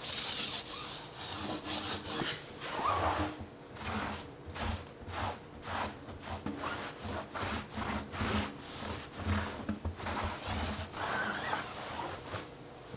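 Brush scrubbing a wheel and tire in quick back-and-forth strokes, about two a second, harsher and louder for the first couple of seconds.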